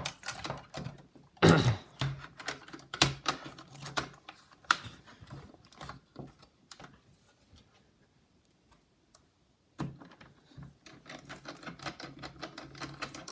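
Irregular clicks and taps of plastic laptop case parts and small tools being handled and fitted during reassembly, with a few seconds of near silence in the middle.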